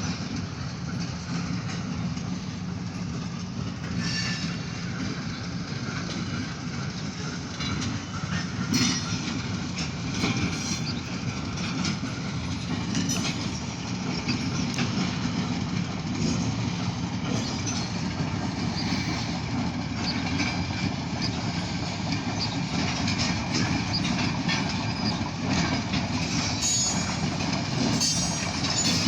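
Long freight train's cars rolling past: a steady rumble of wheels on the rails, with scattered clicks and short metallic squeals, more of them near the end.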